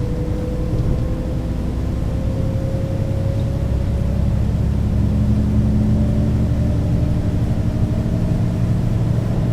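Mercedes-Benz O 530 G Citaro articulated bus under way, its engine drone and ZF automatic gearbox whine climbing slowly in pitch as it gathers speed. About halfway through the tones change and settle at a new pitch, as the gearbox changes gear.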